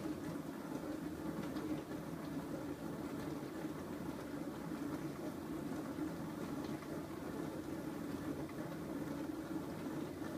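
Bosch SMS50M08GN dishwasher running with a steady, even hum.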